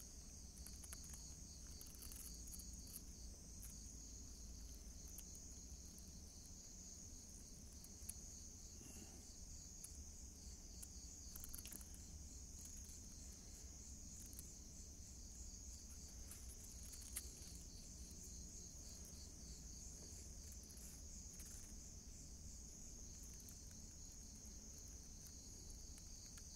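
Faint, steady high-pitched chorus of crickets, with a few scattered faint clicks.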